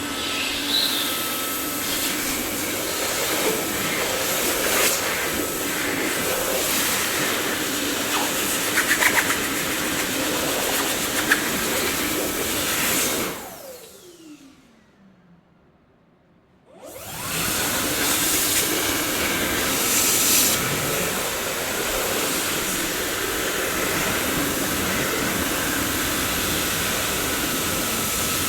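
Dyson vacuum cleaner motor running with a steady whooshing hiss. About 13 seconds in it is switched off and its whine falls away as the motor spins down to near silence. About three seconds later it starts again, rising quickly back to full speed.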